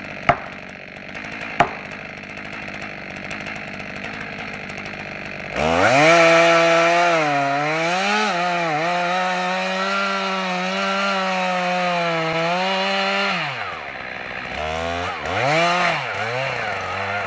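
A chainsaw idles, with two sharp clicks in the first couple of seconds. About five and a half seconds in it is revved up to a high, steady scream that dips and recovers in pitch for about eight seconds, as under cutting load. It then drops back toward idle and is blipped a few times.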